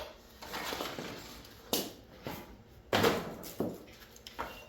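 A series of sharp metallic knocks and clatters with some scraping, from tools and parts of a mini split air conditioner being taken apart; the loudest knock comes about three seconds in.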